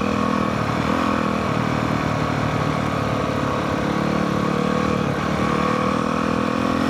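Honda CRF450R's single-cylinder four-stroke engine running steadily at moderate revs as the dirt bike is ridden downhill, the pitch dipping and rising slightly with the throttle.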